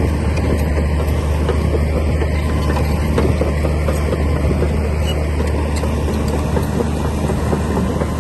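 Komatsu D60P bulldozer's diesel engine running steadily with a low drone, over a continuous rattle and clatter.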